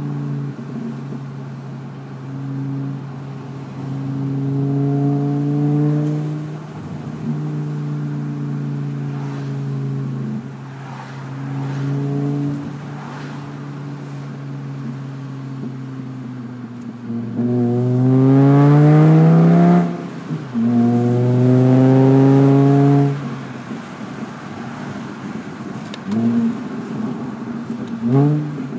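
2009 VW Rabbit's 2.5-litre five-cylinder engine idling and being free-revved through an aftermarket exhaust: a USP test pipe and a single Magnaflow muffler with Borla tips. A few light blips give way to two big revs that climb and hold high about two-thirds of the way in, then two short blips near the end.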